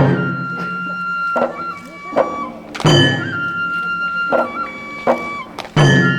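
Folk festival dance music: a bamboo transverse flute holds a high, slowly stepping melody over a big drum. The drum strikes heavily about every three seconds, each beat with a bright metallic clash, and lighter knocks fall in between.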